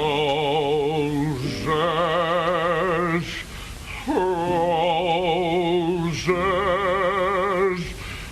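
A man singing the word "roses" in long, drawn-out notes with a heavy, wobbling vibrato, four held notes with short breaks between them.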